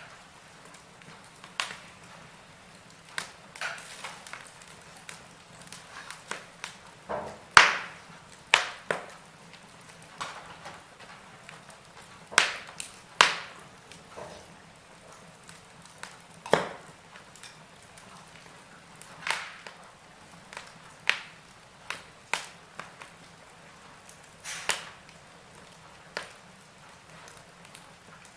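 Wood fire crackling in a fireplace: irregular sharp pops and snaps over a faint steady hiss, with the loudest pop about eight seconds in.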